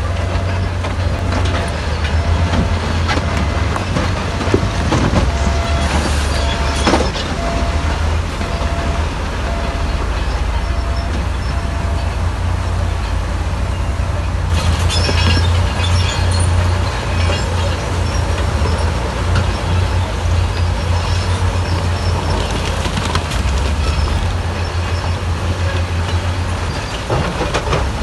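Bulldozer working: its diesel engine rumbling steadily under load, with metallic clanking and squealing from its steel crawler tracks.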